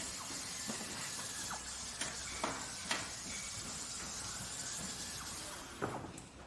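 Workshop or factory ambience: a steady hiss with irregular knocks and clinks of objects being handled, about six of them, the steady noise dropping away near the end.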